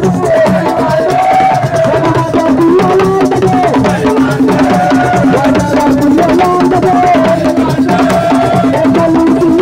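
Live assiko (sico) band music: a steady hand-drum rhythm under a wavering lead melody.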